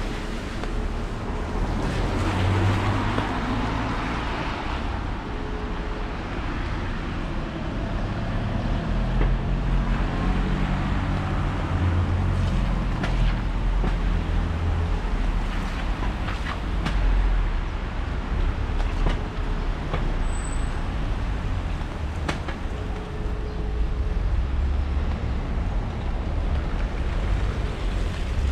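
Rainy street ambience: rain pattering on an umbrella with scattered sharp drips, over the steady low rumble of traffic on the wet road.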